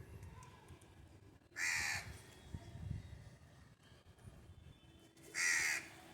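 A young hand-reared bird giving two harsh, rasping calls, each about half a second long, about four seconds apart.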